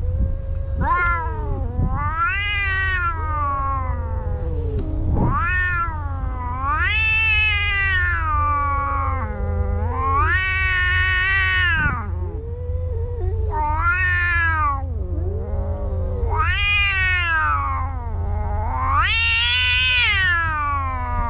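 Two domestic cats yowling at each other in a fight standoff: long, drawn-out caterwauls that rise and fall in pitch, one voice often overlapping the other, with hardly a break.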